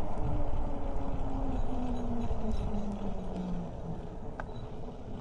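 Electric trike's motor whine falling steadily in pitch as the trike slows, over a low rumble of riding noise that gets quieter toward the end.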